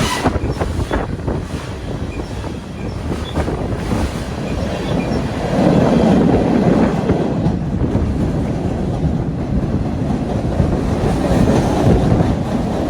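A train passing close by, its wheels clicking over the rail joints, and the rumble growing louder about halfway through.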